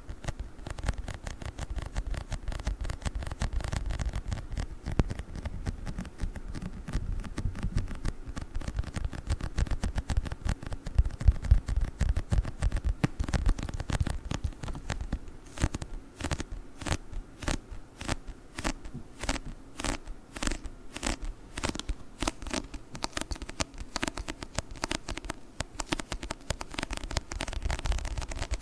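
ASMR tapping and scratching on a book: a dense run of quick small clicks and crackles. Past the middle, sharper clicks stand out, about three a second.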